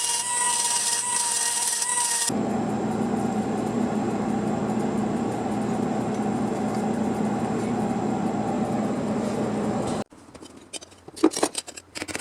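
Power tool working sheet metal: a short whine, then a steady cutting or grinding noise for several seconds that stops abruptly about ten seconds in, followed by a few light clicks and knocks.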